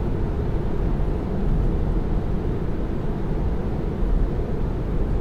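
Steady road and tyre noise of a Tesla Model 3, an electric car, driving at speed, heard from inside the cabin: an even low rumble with no engine note.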